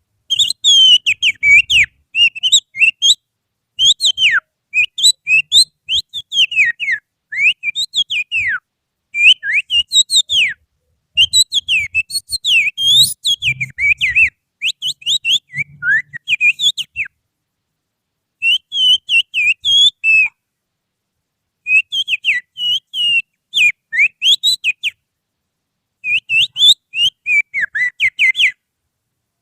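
Finger whistling imitating an Oriental magpie-robin's song: quick runs of high whistled notes that sweep up and down, in phrases broken by brief pauses.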